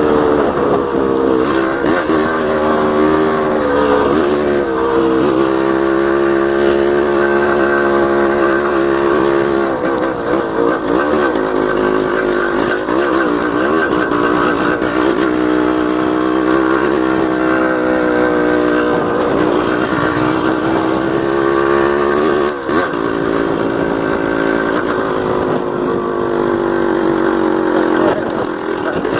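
Yamaha DT 180's two-stroke single-cylinder engine running on the move, its pitch rising and falling again and again as the throttle is opened and closed.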